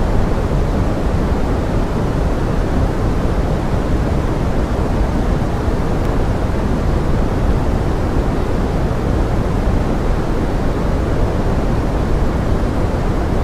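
Forest rain rendered as pink noise: a steady, even hiss weighted toward the low end, with no separate drops standing out.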